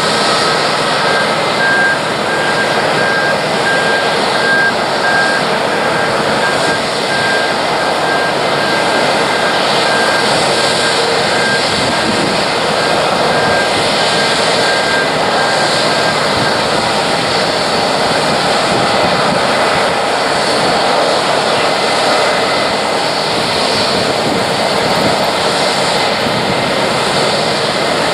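Loud, steady jet engine noise from an airliner, with a thin high whistle that fades out a little over halfway through.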